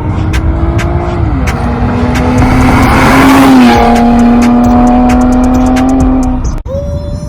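Muscle car engine held at high revs with a steady pitch that steps down once. A hissing noise with tire squeal swells in the middle, as in a burnout. The sound cuts off abruptly near the end.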